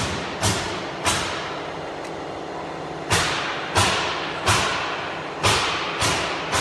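Sharp knocks, each with a short ring, repeating about every two-thirds of a second, with a pause of about two seconds between the second and third knocks, over a steady low hum.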